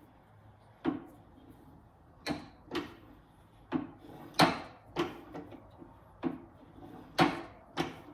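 About ten sharp knocks at uneven intervals, from a Jacobs drill chuck being tapped onto the drill press spindle's number 33 taper to seat it as a friction fit.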